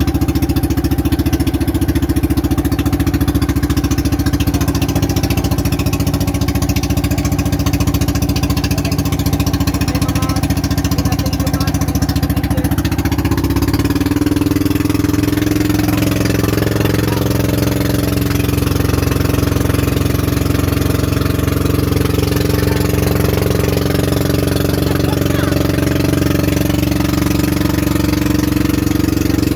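An engine running steadily, its note shifting up a little and settling again about halfway through.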